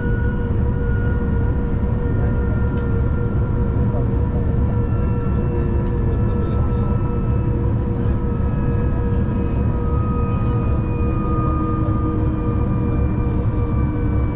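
V/Line train running along the line, heard from inside the carriage: a steady low rumble with several humming tones that slowly drift in pitch.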